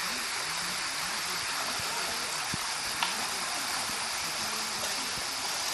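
A stream's flowing water, a steady even rush with faint gurgling underneath. There is a single sharp click about three seconds in.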